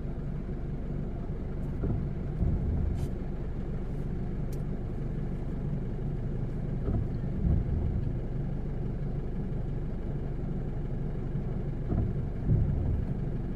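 Car engine idling steadily, heard from inside the cabin, with a few short low rumbles over the hum.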